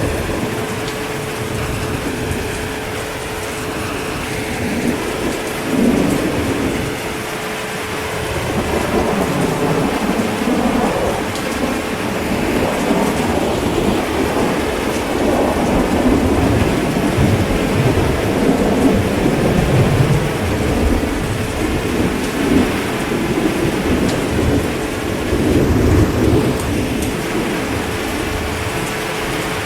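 Steady heavy rain with rolling thunder: a low rumble swells and fades several times, starting a few seconds in and easing off near the end.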